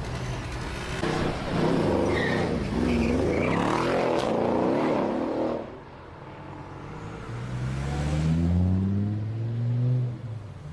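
Mercedes-AMG car, loud. In the first half there is a noisy stretch with a wavering pitch. After that the engine revs up with a steady rise in pitch for a few seconds, then cuts off sharply near the end.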